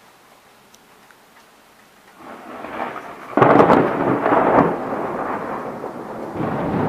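Thunder during a night thunderstorm. After about two seconds of near quiet a rumble builds and breaks into a sudden loud clap about three and a half seconds in. It rolls on, eases off, and swells again near the end.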